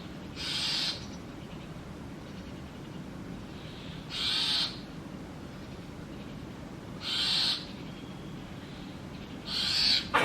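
Nestling brahminy starlings in a nest box giving raspy, hissing begging calls for food: four calls of about half a second each, roughly every three seconds.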